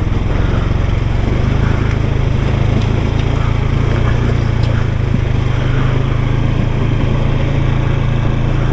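Small off-road vehicle engine running steadily under way on a rough trail.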